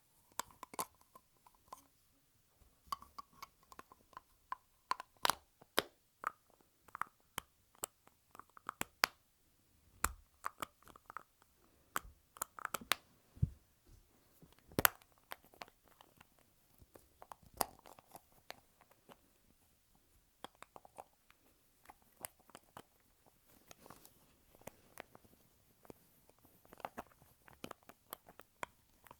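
Lipstick tubes handled close to the microphone: caps snapped on and off and tubes clicked and twisted, making a run of sharp, irregular clicks, a few of them much louder than the rest.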